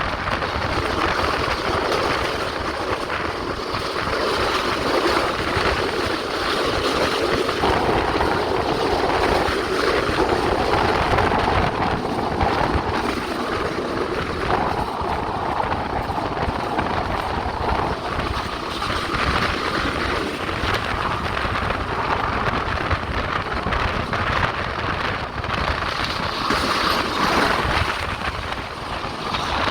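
Passenger train running along the track, heard from on board: a steady, unbroken running noise of wheels on rails.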